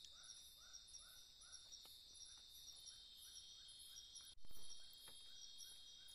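Forest insects, crickets or cicadas, droning steadily and high, with a short call repeated about three times a second. About four seconds in, a single sharp knock stands out as the loudest sound.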